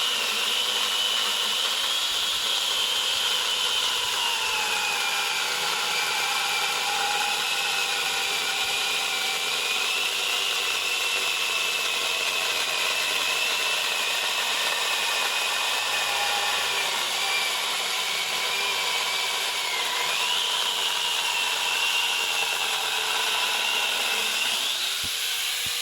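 Electric angle grinder with a chainsaw attachment cutting through a hardwood log, running with a steady high whine whose pitch sags a little under load. Near the end the trigger is released and the motor winds down.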